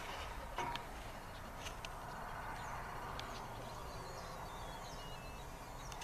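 Quiet outdoor ambience with a small bird singing a run of short high notes that step down in pitch, about halfway through, and a few light clicks.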